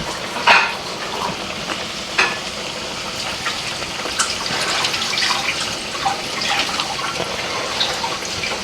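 Breaded chicken nuggets deep-frying in hot oil: a steady sizzle with crackles, and a few sharper clicks as the pieces are turned in the pan.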